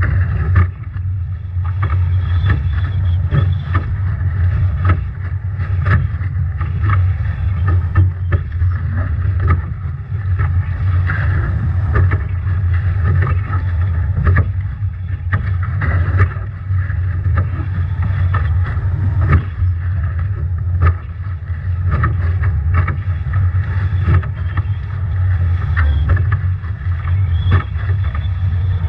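Strong wind buffeting the microphone as a steady low rumble, with water rushing past and frequent sharp slaps of waves and spray on a Nacra 17 foiling catamaran sailing upwind in storm conditions.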